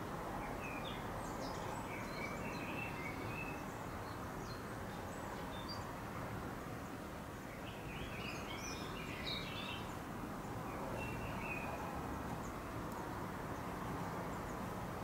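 Small birds chirping in short, faint clusters, about a second in, again around eight to ten seconds, and once near eleven seconds, over a steady outdoor background noise.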